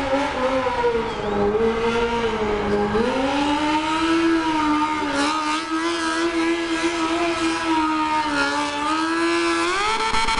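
Motorcycle engine running at high revs, its pitch slowly falling and rising several times and climbing again near the end.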